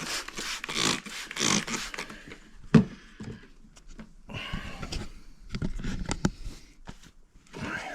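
Steel-wool soap pad scrubbing rust off a car's exhaust pipe in irregular rasping strokes, with one sharp knock a little under three seconds in.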